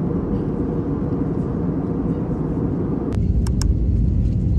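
Steady low rumble of a moving vehicle. About three seconds in it shifts to a heavier rumble, and two sharp clicks follow close together.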